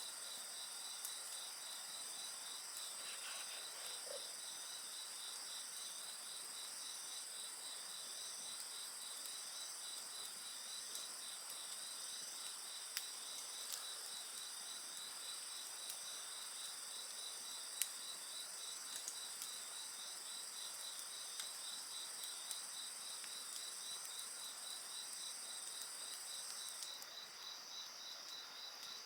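Crickets and other insects singing steadily: one trilling in a rapid, even pulse, others as steady high-pitched drones, with occasional sharp crackles from a wood fire. Near the end the highest-pitched insect drone stops.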